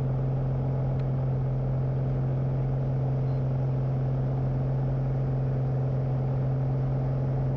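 Light airplane's piston engine and propeller running steadily at climb power just after takeoff, an even drone with a strong low hum heard from inside the cockpit.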